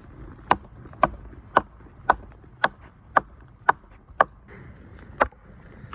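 Axe chopping wood: eight evenly spaced strikes about two a second, then a short pause and one more strike.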